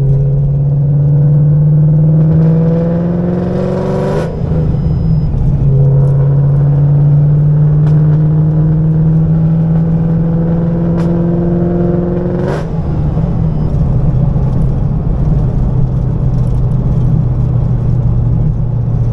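Car engine pulling through the gears: its pitch climbs, drops at an upshift about four seconds in, climbs again for about eight seconds, drops at a second upshift, then runs on at a steady lower pitch.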